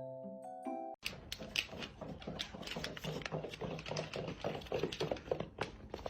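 Glockenspiel-like mallet music stops abruptly about a second in. It gives way to a busy, irregular run of sharp clicks and taps.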